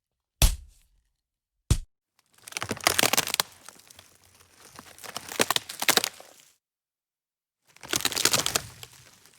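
Two sharp, cracking impacts in the first two seconds, followed by three long bouts of crackling, crumpling noise, like material being crushed or scrunched.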